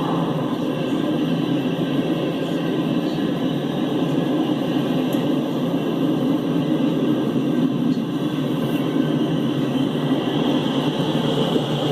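A freight train running past with a steady rumble that doesn't rise or fall.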